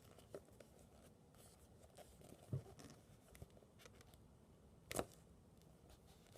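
Near silence with faint handling noises, as of squishy toys and their plastic packaging being moved: a soft knock about two and a half seconds in and a brief sharp rustle about five seconds in.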